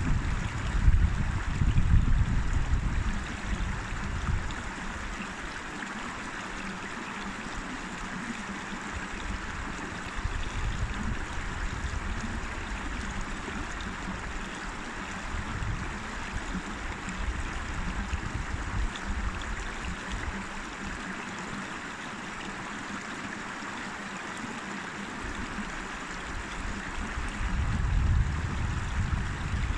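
A river flowing with a steady, even rush of water. Low rumbling gusts of wind hit the microphone in the first few seconds and again near the end.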